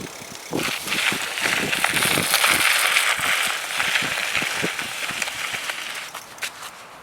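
Bicycle tyres rolling over snow, with a steady hiss and many small crunches, fading out about six seconds in.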